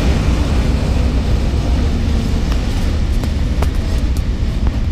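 Passenger train running along the track, heard from inside the carriage: a steady low rumble with a few sharp clicks in the second half.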